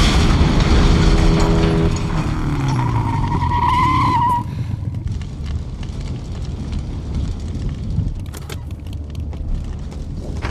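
Film action sound effects: loud vehicle noise with a wavering tyre squeal ending about four seconds in, then a lower, quieter rumble with a few sharp clicks.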